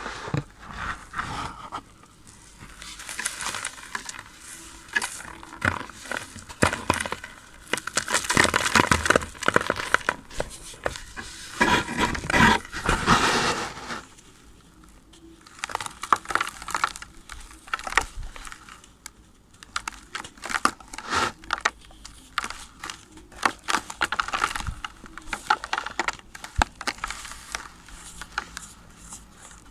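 Moulded ASMR play sand crumbling and crunching as it is broken apart, a dense run of crisp crackles and crunches that comes in waves, loudest in the middle.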